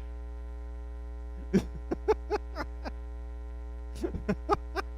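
Steady electrical mains hum, with a few brief bursts of voice about one and a half seconds in and again about four seconds in.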